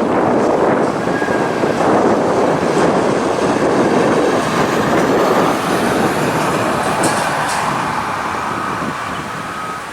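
Heavy-haulage truck towing a multi-row platform trailer rolling past, a loud dense rumble of engine and many tyres that eases off over the last few seconds. A few short beeps sound near the end.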